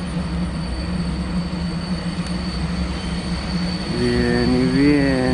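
Steady electric hum over a low rumble from trains standing and moving slowly through the station, with an electric freight locomotive idling close by. About four seconds in a louder pitched sound starts and wavers up and down in pitch.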